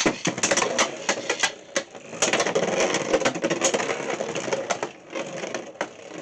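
Two Beyblade X spinning tops launched into a plastic stadium, clashing and rattling with a rapid run of sharp plastic clicks and knocks. An attack type on a rubber bit is rushing and hitting a defensive Phoenix Flare. The clatter thins out near the end.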